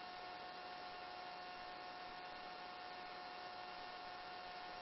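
Steady hiss and hum of a helicopter's headset intercom and radio line between transmissions, with a thin steady tone running through it.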